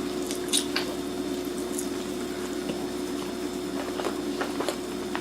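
Soft wet squishing and a few light clicks as roasted Cornish hen is pulled apart with a fork and knife and eaten, over a steady low hum.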